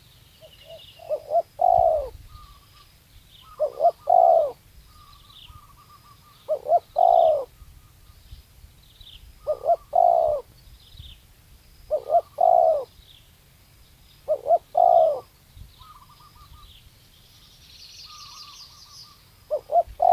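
Spotted dove cooing: a repeated phrase of a few short coos running into a longer, falling coo, about every two and a half seconds. Small birds chirp faintly in the background, with a brief burst of chirping near the end.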